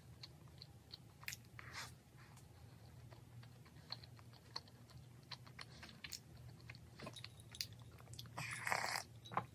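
Close-up mouth sounds of someone chewing a soft chocolate-glazed doughnut: soft, scattered wet clicks and smacks. Near the end comes a louder sip from a mug, lasting about a second.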